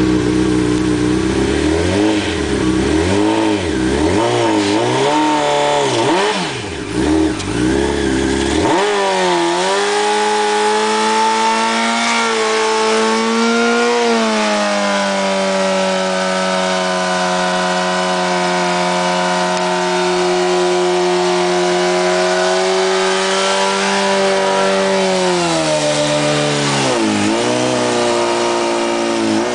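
2006 Honda CBR1000RR's inline-four engine revved in quick up-and-down blips. Then it is held at high, nearly steady revs for about fifteen seconds while the rear tyre spins in a burnout. Near the end the revs drop and it blips again.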